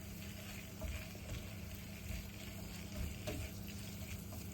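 Chicken, onions and ground walnuts frying gently in a pot, a faint steady sizzle with a few light knocks of a stirring spoon.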